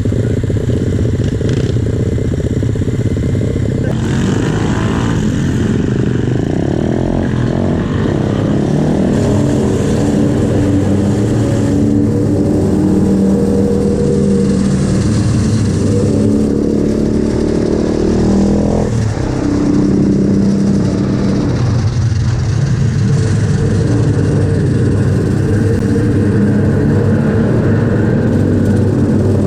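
Small single-cylinder pit bike engine running under way, its pitch climbing as the throttle is opened and falling back several times, with a sharp drop about 19 seconds in.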